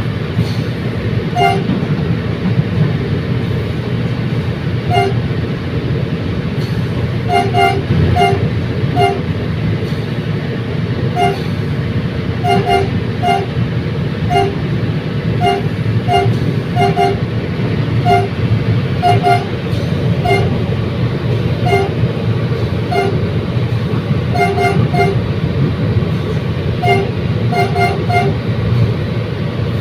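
Commuter train running along the track: a steady low rumble with irregular short clacks, often in pairs, as the wheels pass over rail joints.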